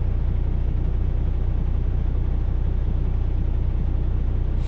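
Semi truck's diesel engine idling steadily, a constant low drone.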